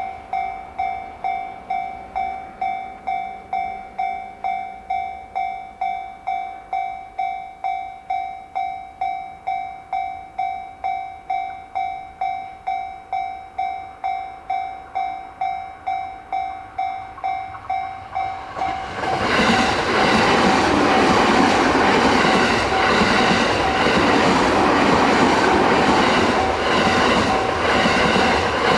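Japanese level crossing warning bell ringing about twice a second. About nineteen seconds in, a JR East E217 series electric train arrives and passes over the crossing, its loud, rhythmic wheel and running noise drowning out the bell.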